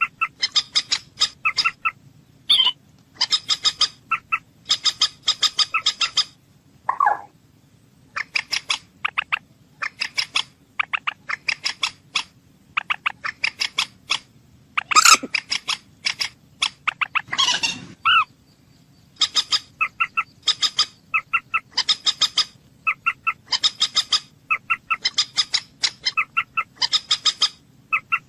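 Moorhen calling: bursts of rapid clicking notes about a second long, repeated over and over, with a few louder harsh calls in between.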